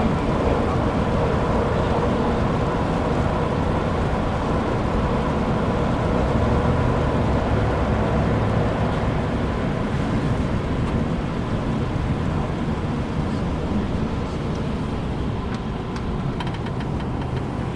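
Steady cabin noise of a Chevrolet Suburban on the move: engine running and tyres on wet pavement.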